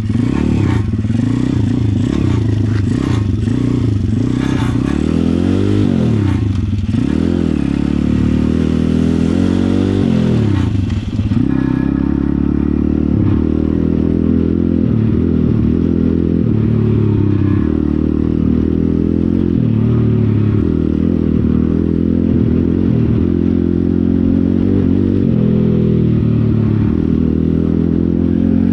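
Pit bike engine revving: several rises and falls in revs over roughly the first ten seconds, then running more steadily with smaller swings in revs.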